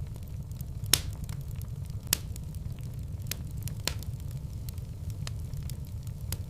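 Wood fire burning in a fireplace: a steady low rumble of the flames with sharp crackles and pops, two louder pops about one and two seconds in.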